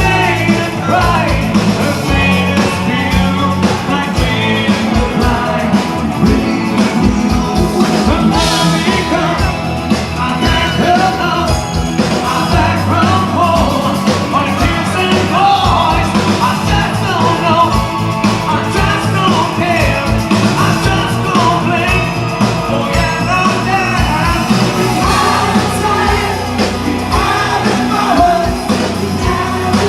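Rock band playing live, with a steady drum beat and singing.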